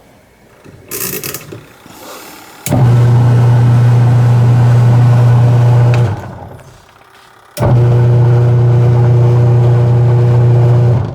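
Washing machine's impeller drive motor and blades running in two stretches of about three and a half seconds, each starting suddenly with a steady hum and winding down before the next, the start-stop rhythm of the wash agitation. The sound is good, with no abnormal noise.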